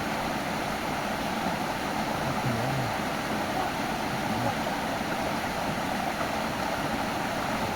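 A stream's water rushing steadily.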